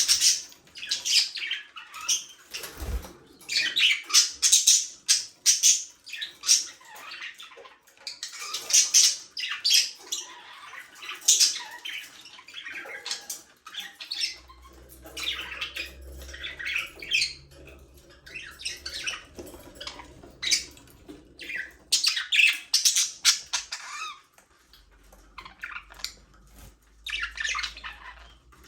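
A flock of budgerigars chirping, warbling and squawking in an aviary, with rapid, irregular high-pitched calls overlapping throughout. A faint low hum sits underneath for stretches in the second half.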